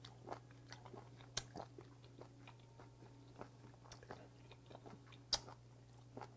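A person chewing a mouthful of raw webfoot octopus (jjukkumi) dipped in gochujang: an irregular run of small wet mouth clicks, with one louder click about five seconds in.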